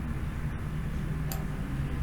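Steady low hum of background noise, with one short faint click just over a second in.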